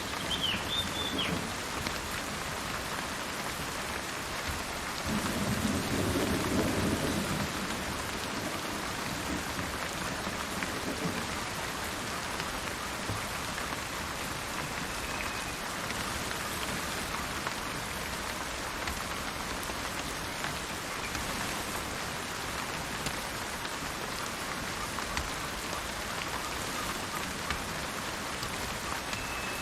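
Steady rain falls throughout. A low roll of thunder comes about five seconds in and lasts a couple of seconds, the loudest part. A bird gives a short chirp near the start and thin whistled notes near the middle and at the end.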